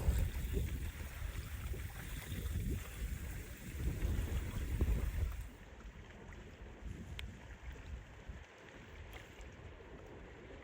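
Strong wind buffeting the microphone over wind-driven lake waves. About five and a half seconds in it cuts to a quieter wash of lapping water with a few small splashes and clicks.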